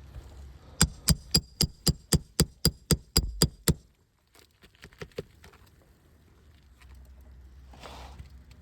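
A roofing hammer striking a steel nail puller about a dozen times in quick succession, about four blows a second, each blow ringing briefly, to work out the nails under a shingle. A few lighter taps and clicks follow.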